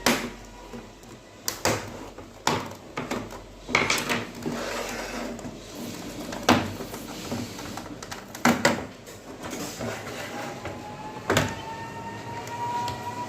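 Irregular sharp clicks and knocks, about seven, from the plastic casing of an LED TV being handled and opened up after its screws have been removed.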